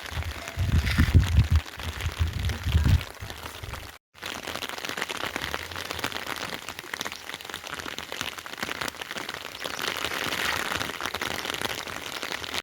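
Steady rain falling, an even hiss of drops. Heavy low thuds sound during the first three seconds, and the sound cuts out for a moment about four seconds in.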